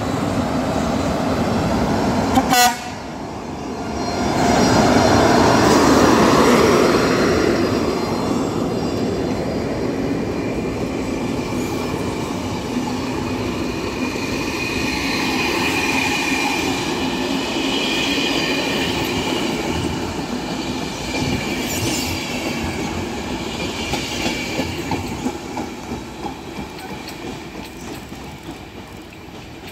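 Passenger train hauled by an electric locomotive pulling away from a station, with a sharp click about two and a half seconds in. The coaches then roll past with a steady rumble and a high squeal from the wheels through the middle, fading near the end as the train leaves.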